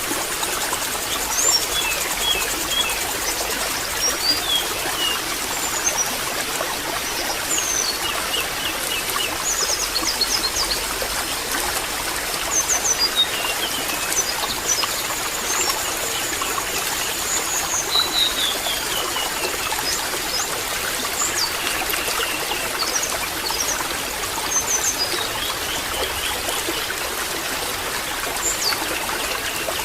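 Steady trickling, babbling water, with many short high bird chirps, trills and whistles scattered over it.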